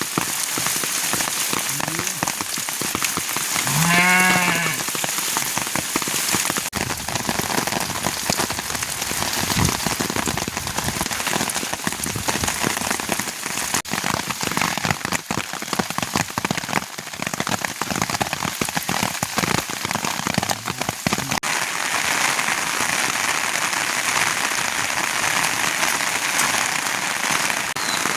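Steady rain falling and pattering on a surface. About four seconds in, a sheep bleats once.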